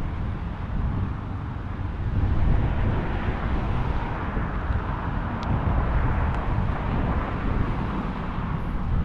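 Steady rumbling noise of wind and road traffic on the microphone, with no distinct events.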